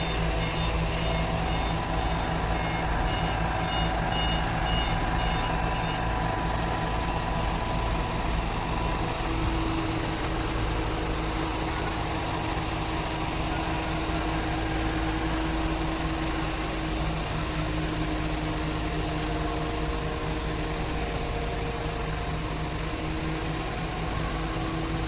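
Heavy truck crane's diesel engine running steadily with a deep drone, with a repeating electronic warning beep for about the first six seconds.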